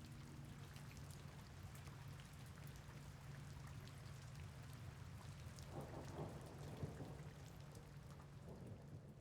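Heavy rain falling faintly, with many individual raindrops ticking and a steady low rush underneath.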